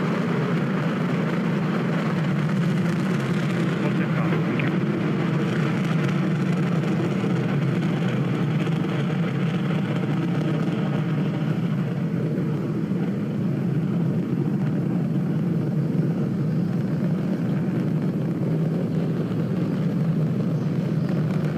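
Falcon 9 rocket's nine first-stage Merlin engines at full thrust during ascent: a steady, deep rumbling roar whose higher hiss fades about halfway through as the rocket climbs away.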